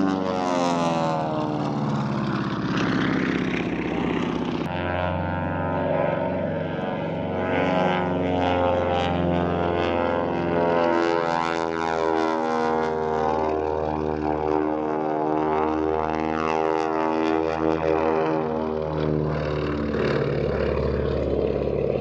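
Propeller engine of an aerobatic stunt plane running at high power overhead, its pitch sliding up and down as the plane passes and manoeuvres. The sound changes abruptly about five seconds in.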